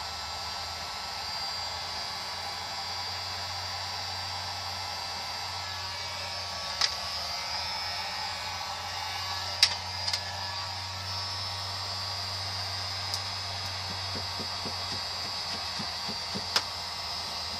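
Hand-held hot-air blower, such as a heat gun, running steadily with a low hum. A few sharp clicks or taps come about a third of the way in, around halfway, and near the end.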